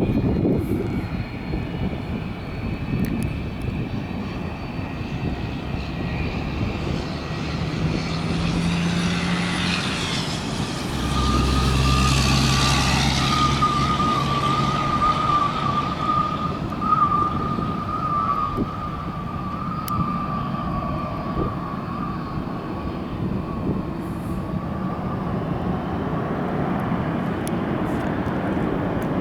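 Jet airliner engines at takeoff power. The roar swells to its loudest about halfway through, with a steady high whine over a low rumble, then slowly fades as the plane moves away.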